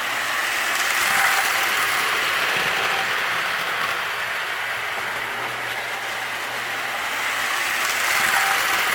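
Marx Wm. Crooks toy train running on three-rail O-27 track: a steady whirring rattle of its motor and wheels, swelling louder about a second in and again near the end as it passes close.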